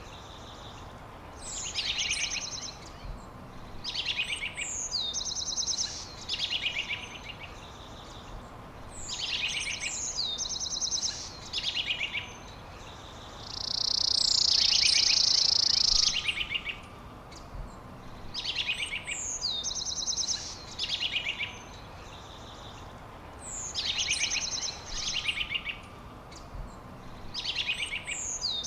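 A songbird singing the same short phrase over and over, about every two seconds: rapid high trills and quick slurred notes. Around the middle a loud, steady high hiss or buzz lasts about two and a half seconds.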